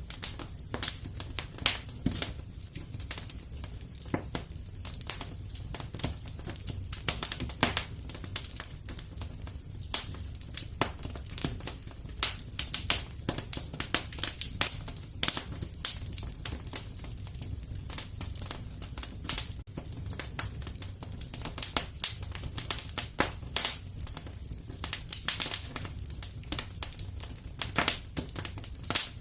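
Wood fire crackling in a fireplace: irregular sharp pops and snaps, several a second, over a steady low sound of the burning.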